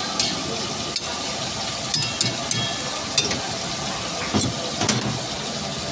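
Chicken pieces sizzling in hot oil in a karahi wok over a gas flame, with a metal spatula clinking and scraping against the wok several times.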